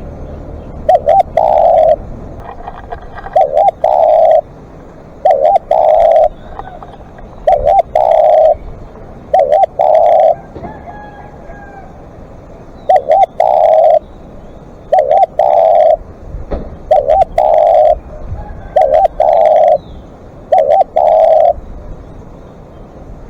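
Spotted dove cooing over and over, about ten phrases roughly two seconds apart, each of two short notes running into a longer coo, with a pause of a few seconds midway.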